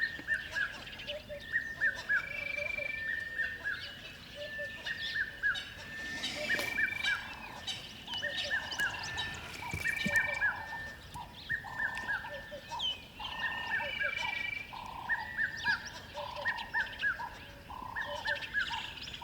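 Birds calling: quick runs of short, falling chirps repeated throughout, with an occasional held, whistled note.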